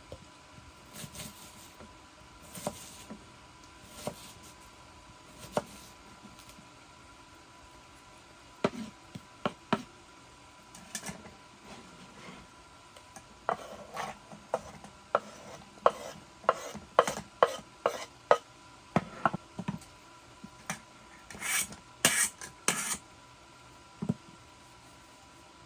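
Utensil tapping and scraping against cookware, as in stirring a pot: scattered clinks at first, then a quicker run of taps in the middle and a louder cluster of scrapes near the end.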